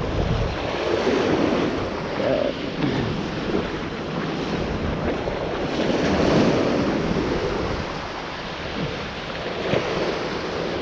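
Wind buffeting the microphone in uneven gusts, over a rushing water noise.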